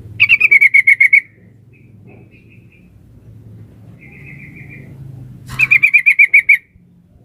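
Yellow-vented bulbul (trucuk) calling: two loud bursts of rapid chattering notes, each about a second long, one near the start and one about five and a half seconds in, with fainter short calls between. Offered as a female's call to a male, used as a lure to make a quiet bird answer.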